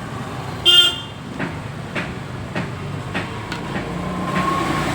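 A vehicle horn gives one short toot about a second in, over a run of sharp clicks roughly every half second and steady traffic noise that grows toward the end.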